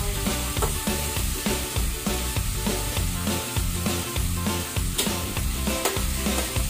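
Pork pieces sizzling in hot oil in a wok as they are stirred, the metal turner scraping and now and then clicking against the pan. Background music with changing bass notes runs underneath.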